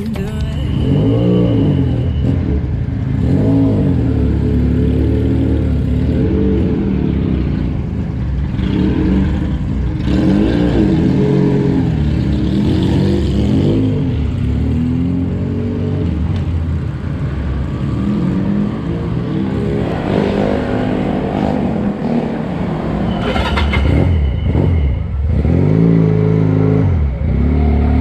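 Motorcycle engine running while riding, its pitch rising and falling repeatedly as it speeds up and eases off.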